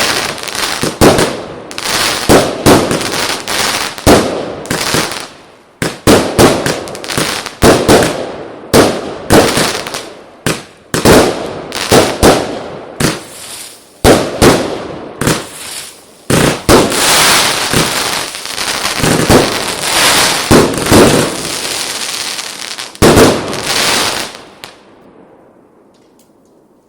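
Consumer firework battery (cake) firing a long volley: sharp bangs every half second to a second with crackling between them, merging into continuous crackle in the middle, then stopping about 25 seconds in and dying away.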